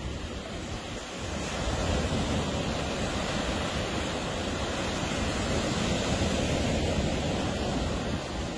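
Ocean surf washing onto a beach: a steady rushing noise that swells about a second and a half in and stays up before easing near the end.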